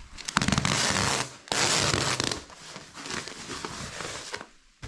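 Plastic floor-protection film being pulled off its roll: two long crackling peels, then lighter crinkling that stops shortly before the end.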